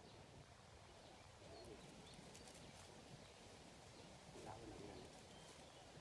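Faint outdoor ambience with a few distant bird calls, one about a second and a half in and another near the end.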